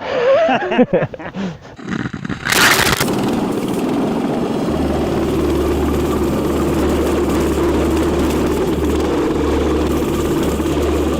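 Motoland RT200 mini mud bike's engine running steadily under way, after a short sharp noise about two and a half seconds in.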